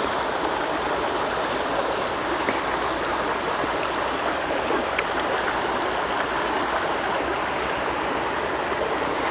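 Steady rush of flowing water, like a stream running, with a few faint clicks over it.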